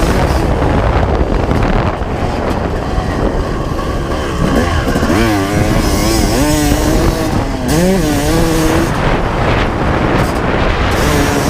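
1995 Honda CR250's two-stroke single-cylinder engine revving, its pitch rising and falling repeatedly through the middle, over a steady rush of noise.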